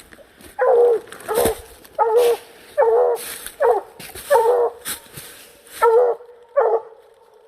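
Coonhound barking at a raccoon it has treed, about eight loud barks roughly one a second, each dropping in pitch at the end: a tree bark that tells the hunter the coon is up the tree.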